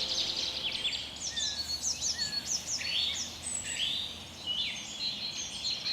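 Several songbirds chirping and singing together, with quick runs of short, high, falling notes overlapping one another and a few lower whistled notes among them.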